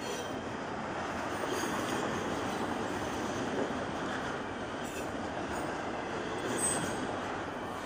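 Double-stack intermodal freight train rolling steadily past, a continuous rumble of wheels on rail, with a brief high squeal near the end.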